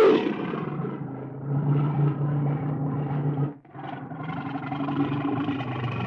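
A large predatory animal growling: two long, low, rumbling growls with a short break between them a little past halfway.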